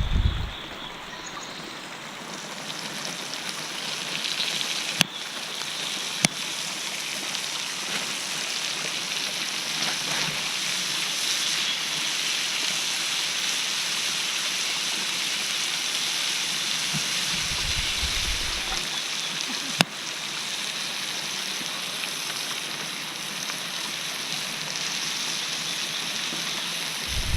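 A small brook babbling steadily, an even rush of flowing water, with a few sharp clicks over it.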